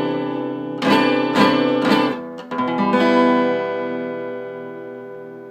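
Acoustic guitar strumming a few chords, then a final chord left to ring out and slowly fade, ending the song.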